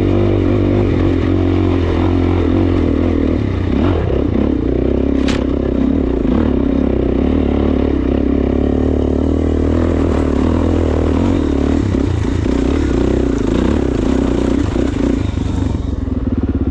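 Suzuki DR-Z400S single-cylinder four-stroke engine pulling hard in second gear up a dirt hill climb, with the bike clattering over rough ground. There is a sharp knock about five seconds in, and the engine note changes just before the end.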